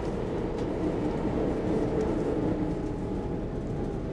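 SL X10 electric commuter train running at speed, heard from inside the passenger car: a steady rumble of wheels on the rails with a faint steady hum over it.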